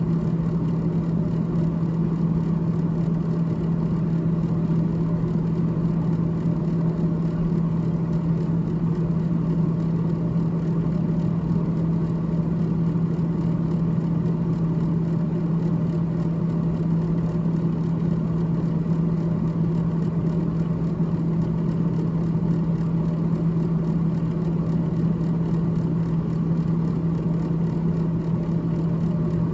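Freezer fan of a GE GTH18XCTZRBB refrigerator running steadily: a constant low hum with a whir over it.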